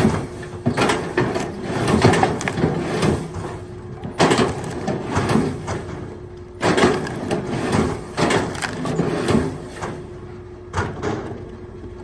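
Firewood clattering and knocking in repeated bursts every couple of seconds, over a steady low hum.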